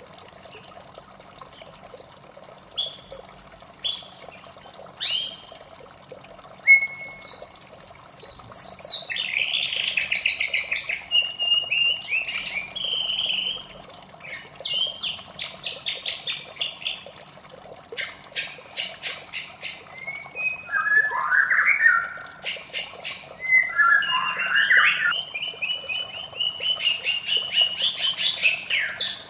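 White-rumped shama singing: a varied run of short whistled notes, sweeping phrases and fast rattling trills, beginning a few seconds in, over a faint steady water sound.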